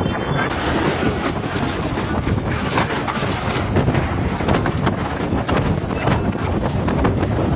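Strong storm wind blasting the microphone in a loud, steady rush.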